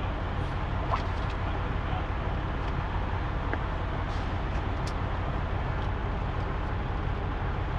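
Semi truck's diesel engine running steadily, a low even rumble with a few faint ticks over it.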